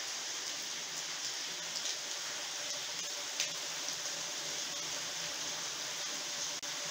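Steady hiss of a heavy rain downpour, with a few sharper drip ticks standing out.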